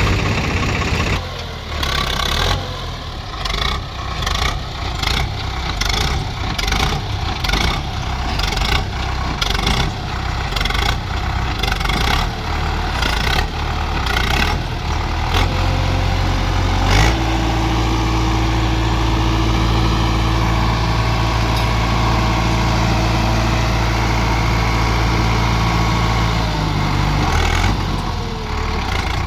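Tractor diesel engine working hard under load as it tries to pull a tractor stuck in soft soil. For the first half it runs with a rough pulsing, about two beats a second. After a sharp knock about halfway through, it settles into a steady high-revving drone that drops near the end.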